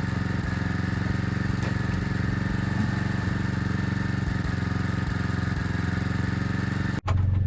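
Portable generator's small engine running steadily. The sound cuts off abruptly about seven seconds in and is replaced by a lower, steadier hum.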